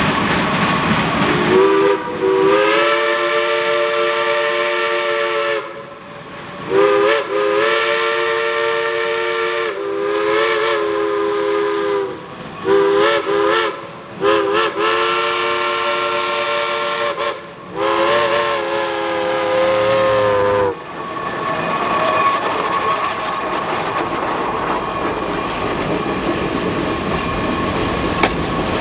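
Steam locomotive chime whistle sounding a chord of several notes in a series of long and short blasts, the last one cutting off about three-quarters of the way through. The running noise and clatter of the train carries on under and after the whistle.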